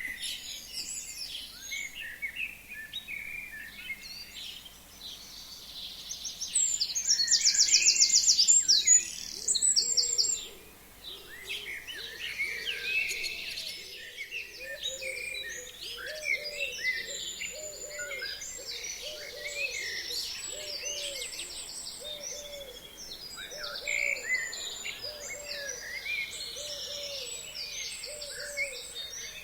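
Several forest birds singing and chirping together, with a loud, fast, even trill about seven to ten seconds in. From about halfway, a low call repeats roughly once a second underneath the song.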